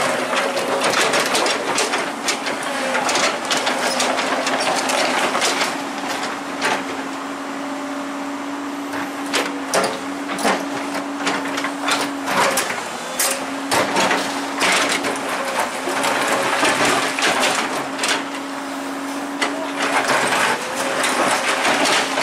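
Excavator running with a steady hum, with repeated metallic clanks and knocks at irregular intervals.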